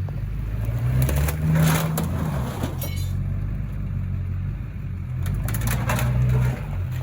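2003 LB7 Duramax V8 diesel pickup engine running and revving, rising in pitch about a second in, with several bursts of clattering, crunching noise as it works against a scrap car.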